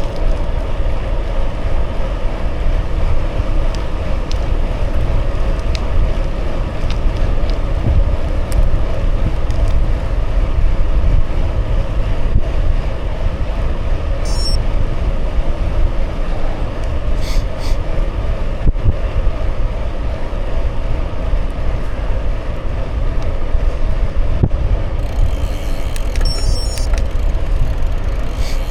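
Steady wind rumble on the microphone mixed with the rolling noise of bicycle tyres, riding along at an even pace. A few faint high chirps come through about halfway and near the end.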